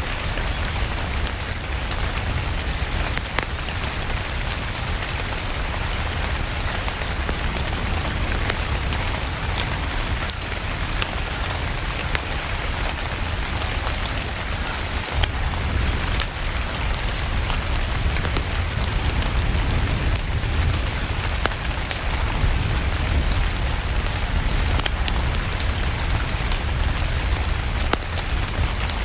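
Steady rain mixed with a crackling fireplace: a constant rush of rain over a deep low rumble, with many small sharp pops and ticks scattered throughout.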